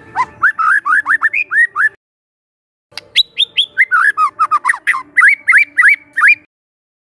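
Young wild white-rumped shama singing: two phrases of fast, repeated upslurred whistled notes. The second phrase starts about three seconds in with a few sharp high notes, then rapid warbling, and stops abruptly a little after six seconds.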